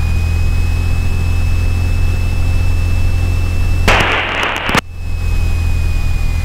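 Cessna 172's engine running steadily at low power, heard through the cockpit headset audio with a thin steady whine over it. About four seconds in, a roughly one-second burst of radio static cuts in and stops sharply.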